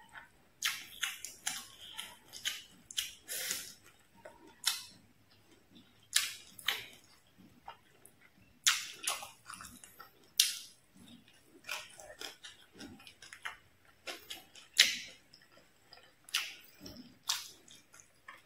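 Close-miked eating of stir-fried fish with ginger and rice by hand: irregular sharp crunches, bites and wet mouth clicks as she chews, a few each second, with a louder bite about three-quarters of the way through.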